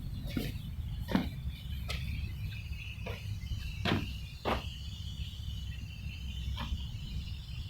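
About seven sharp knocks and clicks at irregular intervals, the loudest about a second in and near four seconds in, over a steady high insect chirring and a low rumble.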